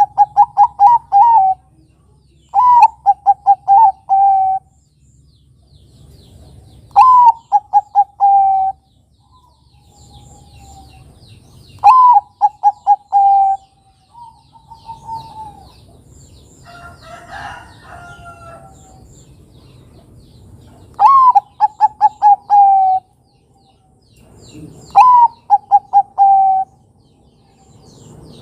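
Zebra dove (perkutut) of the Bangkok type cooing. It sings six phrases, each a rising opening note followed by a quick run of short staccato coos. Faint chirps of other birds fill the gaps, and a rougher, noisier call comes a little past halfway.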